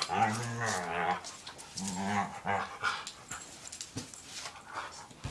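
Two dogs growling and whining as they tussle over a toy ball: a long drawn-out call in the first second, a second shorter one about two seconds in, then quieter panting and scuffling.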